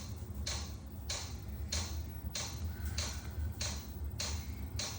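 Chinese diesel heater's fuel dosing pump ticking steadily, about eight clicks in five seconds, over a steady low hum, during the heater's start-up.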